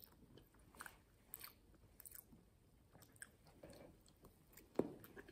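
Faint chewing and mouth sounds of someone eating cheesecake off a spoon, with scattered small clicks and one sharper click near the end.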